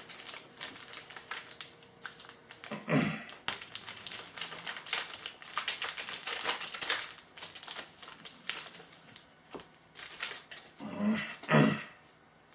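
A trading-card pack wrapper being torn open and crinkled, and the cards inside handled: a dense run of small clicks and rustles.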